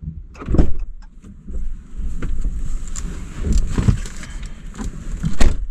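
Irregular rustling and handling noise with a steady low rumble, broken by two heavy thumps: one about half a second in and a louder one near the end.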